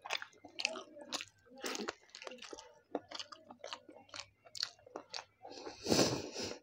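Close-miked mouth sounds of a person eating chicken biryani by hand: wet chewing and lip smacks in a quick run of short clicks, with a louder, longer burst about six seconds in as a chicken drumstick is bitten.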